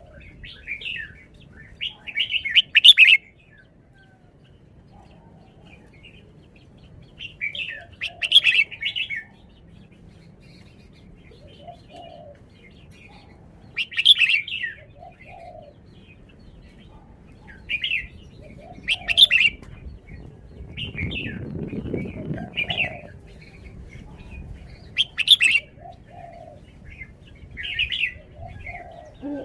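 Red-whiskered bulbul singing short, loud, chirpy phrases, one burst every few seconds with pauses between, as a showcase of its song.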